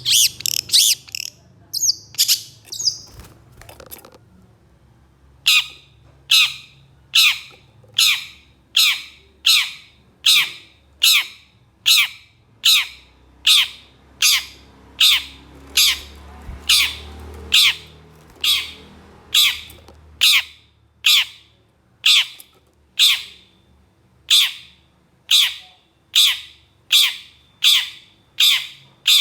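Long-tailed shrike (cendet) giving harsh, rasping calls: a fast chatter at first, a short pause, then a steady, evenly spaced run of harsh calls, about three every two seconds.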